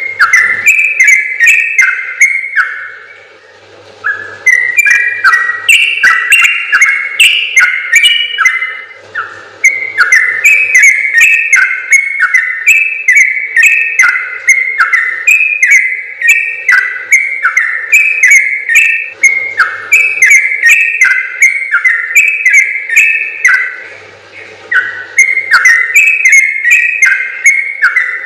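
Yellow-vented bulbul (trucukan) singing its long, fast, bubbly song: quick runs of rising and falling whistled notes lasting several seconds, with brief pauses between runs.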